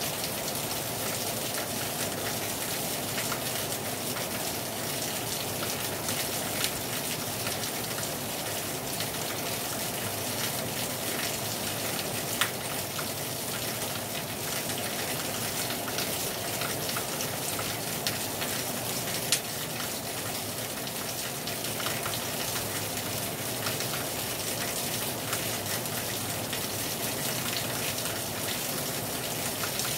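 Heavy rain falling hard on a terrace, a steady hiss with individual drops ticking sharply against it, a few louder drips standing out now and then. The rush of the river may be mixed into the steady part.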